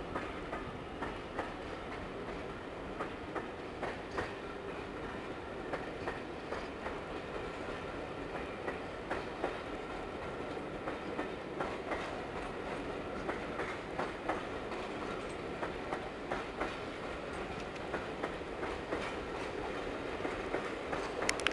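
A passenger train rolling past at a steady speed: a continuous rumble with irregular clicks of wheels going over rail joints.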